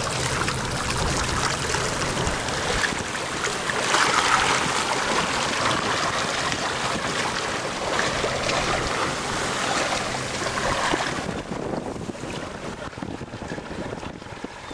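Wind buffeting the microphone over the rush of water along a sailboat under way: a steady rushing noise that drops to a quieter level about eleven seconds in.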